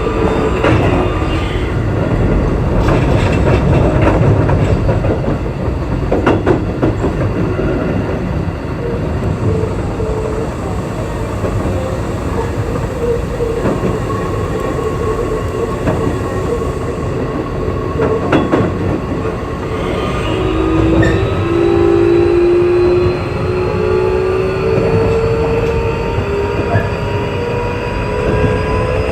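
Keio 8000 series electric train heard from aboard while running, with steady wheel-and-rail rumble and a few sharp clicks over rail joints. From about two-thirds of the way in, the traction motor whine climbs steadily in pitch as the train accelerates.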